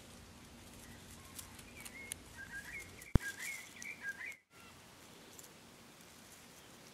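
A small bird twittering in a run of short, quick chirps from about two seconds in until a little past four seconds, over faint scattered ticks. A single sharp click a little after three seconds is the loudest sound, and the sound cuts out for a moment shortly after four seconds.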